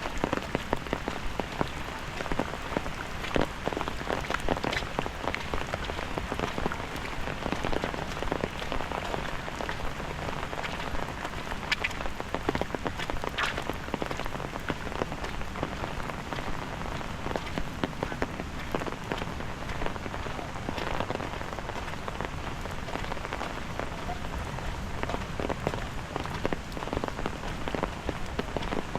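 Steady rain falling on hard surfaces, a dense patter of drops with sharper single drop hits ticking through it, a few louder ones around the middle.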